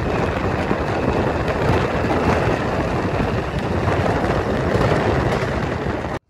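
A train passing close by: a loud, steady rushing rumble with no clear tone, which cuts off suddenly near the end.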